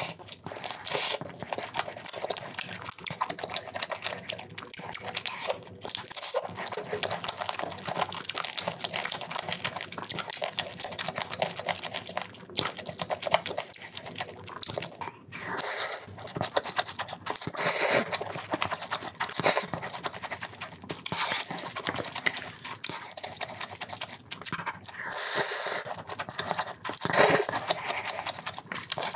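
Close-miked eating sounds: wet chewing and lip smacks of saucy, cheese-dipped food, a dense run of irregular small clicks with louder stretches now and then.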